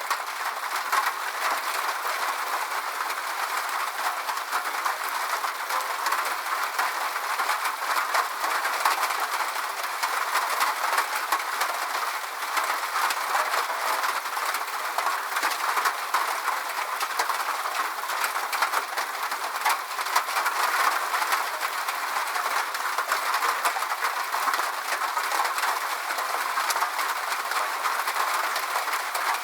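Steady rain, a dense even patter of drops with no low rumble, swelling up just as it begins.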